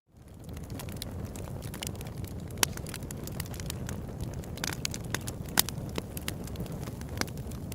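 Open-air wood campfire crackling: frequent sharp pops and snaps, a few louder ones, over a steady low rumble. It fades in from silence right at the start.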